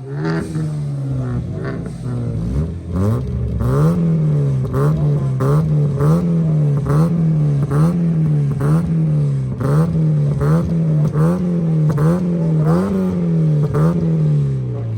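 A car engine revved hard over and over, its pitch climbing and dropping back about once every 0.8 seconds for around a dozen blips, with a sharp crack at each peak. It starts with a rev-up about two and a half seconds in and falls back toward idle at the very end.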